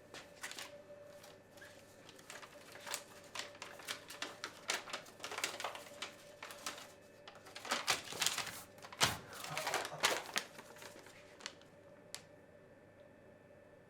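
A run of irregular clicks and taps, busiest in the middle and dying away near the end, over a faint steady hum.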